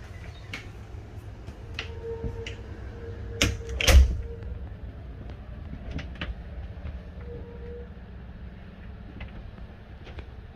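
Scattered clicks and knocks over a low steady rumble, with two loud thumps about three and a half and four seconds in.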